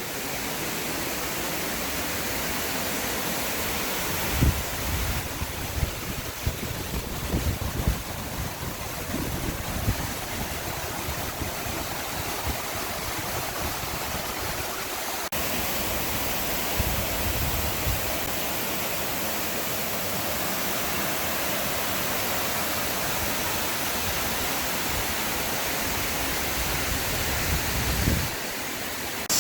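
Waterfall and rushing creek water making a steady, even roar, with a few irregular low bumps on the microphone.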